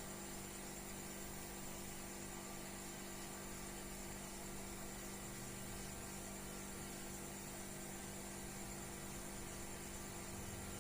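Steady low hum with an even hiss, unchanging, with no distinct events.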